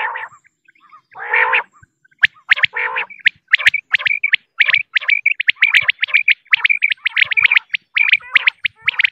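Female common quail calling: a couple of low raspy notes at first, then from about two seconds in a rapid, unbroken series of short high chirps.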